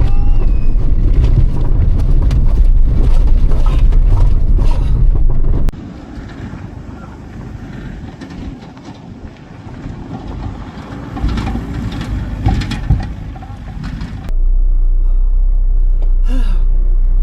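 Rally car engine noise, loud and low. It cuts off abruptly about six seconds in to a quieter stretch with scattered knocks and clatter, then a loud, steady low engine drone comes back abruptly about fourteen seconds in.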